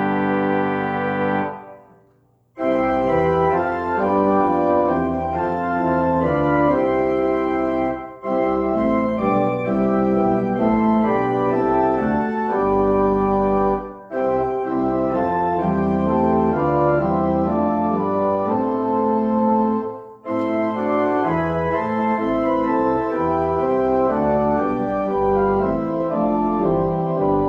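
Organ playing slow music in sustained chords, phrase by phrase, with a short break about every six seconds.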